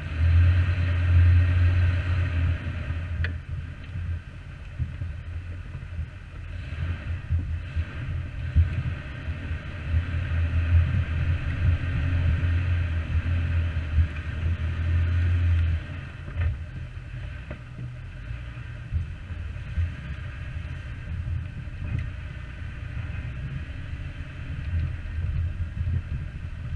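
Jeep engine running while driving an off-road trail, louder for the first few seconds and again from about ten to sixteen seconds in.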